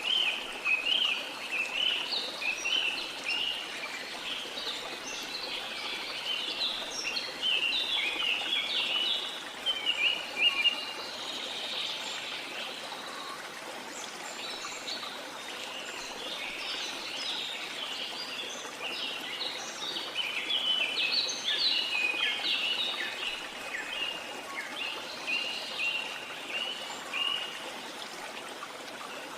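Many birds chirping and singing rapidly over the steady rushing of a waterfall. The birdsong comes in two long spells with a short lull a little before the middle.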